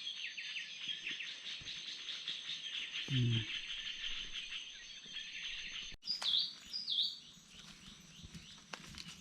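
Early-morning forest bird chorus: many birds chirping at once over a steady high insect drone. About six seconds in it cuts off abruptly, and two clear bird calls follow, each a quick falling note.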